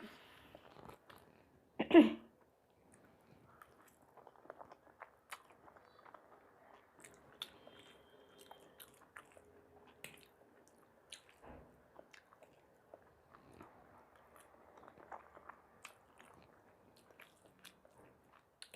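Close-up eating sounds: a person biting and chewing food, with many small moist clicks and soft crunches. One much louder bite comes about two seconds in.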